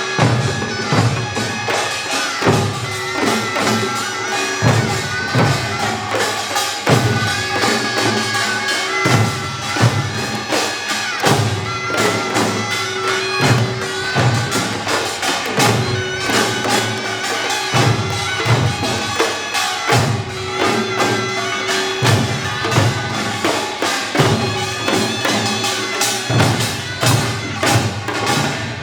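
Korean pungmul band playing: a taepyeongso (Korean shawm) carries a held, reedy melody over fast, dense drum and gong strikes.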